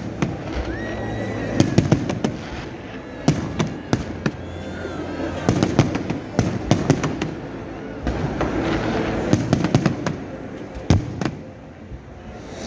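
Fireworks going off: many sharp bangs and crackles in quick clusters, with people's voices in the background.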